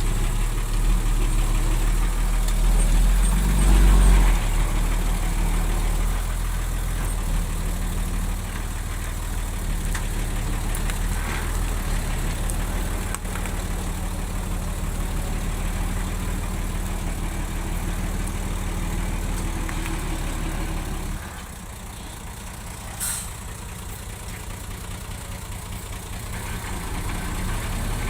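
Bulldozer's diesel engine running with a steady low drone, loudest about four seconds in. About twenty-one seconds in it drops to a quieter, lower run, with one brief sharp click a couple of seconds later, and it picks up again near the end.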